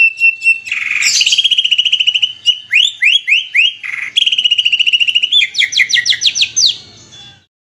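Songbird song: fast trills of repeated chirps alternating with harsh rasping bursts and runs of quick downward-sweeping whistled notes. The song stops abruptly near the end.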